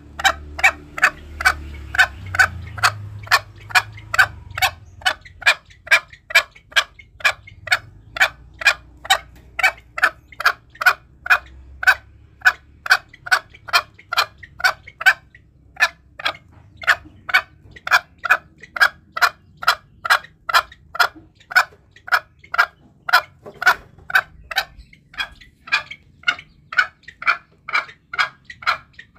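Green junglefowl calling in a fast, even run of short notes, about two to three a second, with a brief break about fifteen seconds in. This is a lure call used to draw wild junglefowl when hunting.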